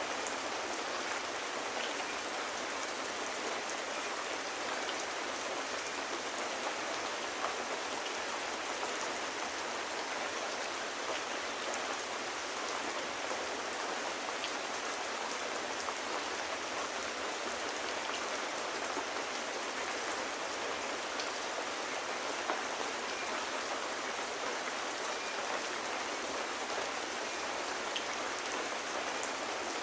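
Steady rain: an even hiss of falling rain with faint scattered ticks of individual drops.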